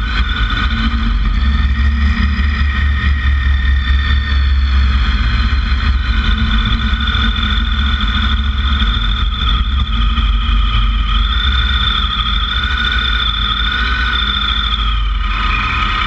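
Motorcycle running steadily while being ridden, with a heavy low rumble and a steady high whine that wavers slightly in pitch.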